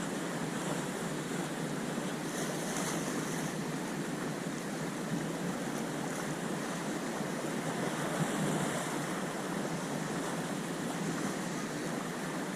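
Sea waves washing on the shore in a steady rush, with wind on the microphone. The wash turns briefly hissier about two seconds in and again past the middle.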